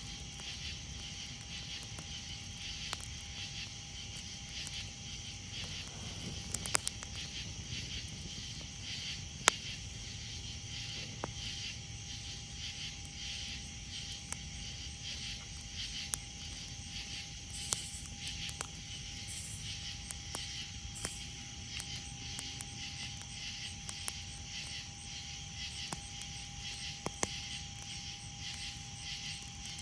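Campfire crackling, with scattered sharp pops, over a steady chorus of night insects trilling in fast pulses.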